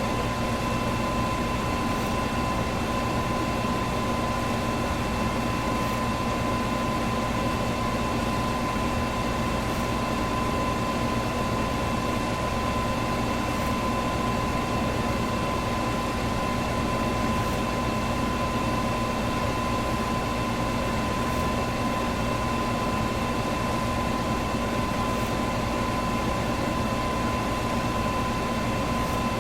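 Electric fan running steadily: an even rush of air with a constant motor hum, its tones holding at one pitch.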